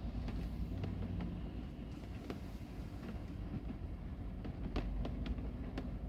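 Heavy rain, heard as a steady low rumble with irregular sharp taps of drops landing close by.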